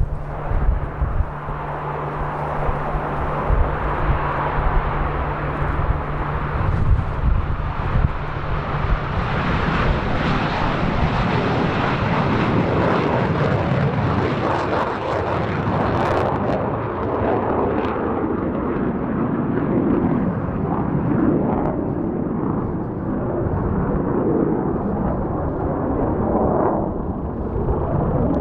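Jet noise from a Mitsubishi F-2 fighter's single F110 turbofan engine, a dense steady rush that builds fuller from about eight seconds in and holds most of the way. Wind buffets the microphone near the start.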